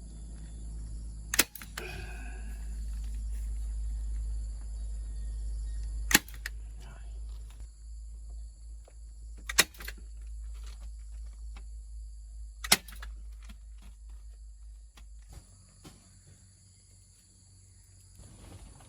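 Four sharp knocks, a few seconds apart, with smaller ticks between them, over a low rumble that fades out about three-quarters of the way through. Steady high insect buzzing runs beneath.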